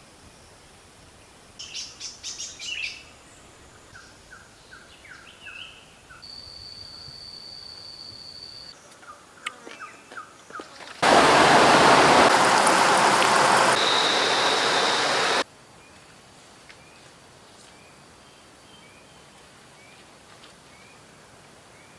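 Tropical forest birds calling: quick high chirps, a run of short falling notes and a held whistle. About eleven seconds in, a loud even hiss cuts in abruptly for some four seconds and stops just as sharply. After that, faint rising chirps repeat about once a second.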